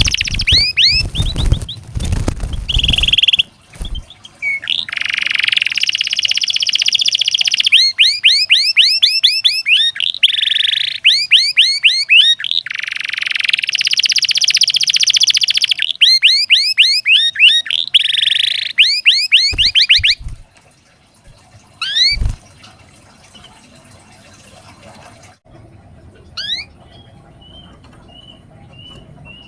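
Domestic canary singing a loud, continuous song of rapid rising-note trills alternating with buzzy rolls. It breaks off about two-thirds of the way through, leaving a few single chirps and a short trill near the end. A few low thumps come near the start and around the point where the song stops.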